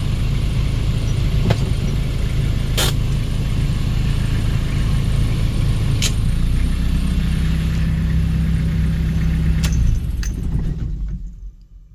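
1997 Toyota Hiace van engine idling steadily, with a few sharp clicks over it; its pitch shifts slightly partway through, then the engine is switched off and runs down near the end.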